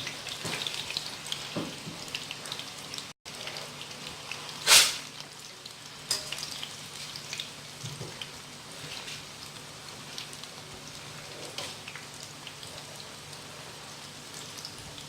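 Pieces of breadfruit frying in a pan of hot oil: a steady crackling sizzle with many small pops, and one loud burst of sizzle or clatter about five seconds in.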